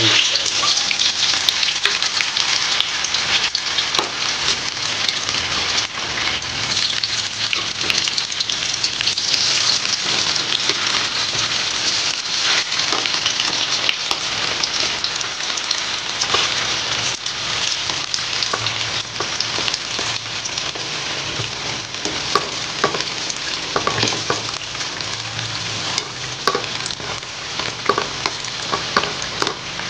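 Firm tofu slabs shallow-frying in hot cooking oil in a wok: a steady sizzle dotted with crackling pops of spattering oil. Now and then a spatula knocks and scrapes against the wok as the pieces are turned.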